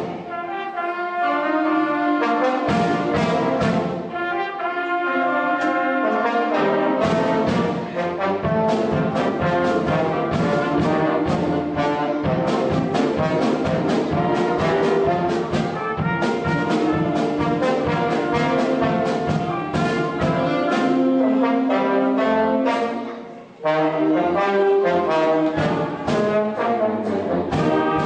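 Concert band playing, led by trombones and trumpets, over steady drum beats, with a brief drop in level about three-quarters of the way through before the full band comes back in.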